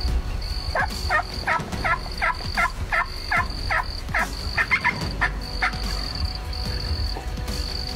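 A run of about a dozen turkey yelps, roughly three a second, ending a couple of seconds before the close. A steady high pulsing tone sounds underneath.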